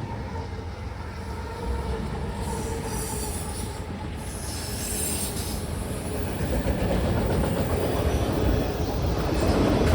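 CSX manifest freight train rolling past, a steady rumble of wheels on rail that grows louder in the second half, with high-pitched wheel squeal twice in the first half.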